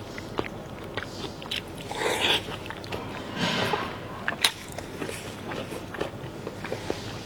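A person eating close to the microphone: chewing with many short wet clicks and lip smacks, and two longer, louder mouthfuls at about two and three and a half seconds in.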